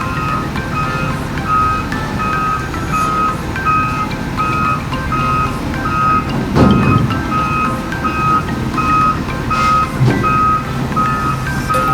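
Heavy machinery's reversing/travel alarm beeping steadily, about two beeps a second, over the low rumble of a diesel engine running. About two-thirds of the way through, a brief louder rumble from the engine.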